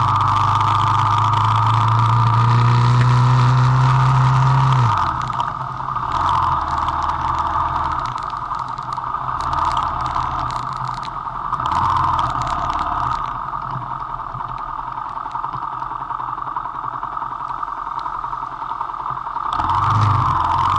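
Vento Rocketman motorcycle engine revving up, its pitch climbing for about five seconds until the throttle is shut. It then runs at lower revs with a few short throttle surges, and picks up again near the end.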